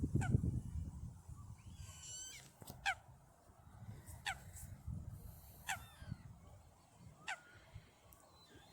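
Bird calls: short, steeply falling calls repeated about every second and a half, with one harsher, buzzier call about two seconds in.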